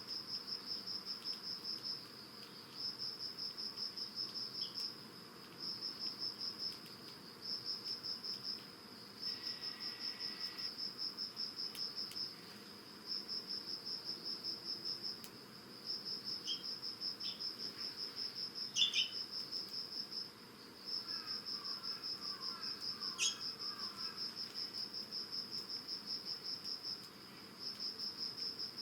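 Autumn insects chirping: a high, rapidly pulsed trill that comes in runs of one to two seconds with short pauses between them.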